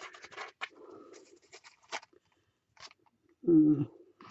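Soft rustling, crinkling and small clicks of paper and trim being handled and pressed down, then a short, loud hum of a voice about three and a half seconds in.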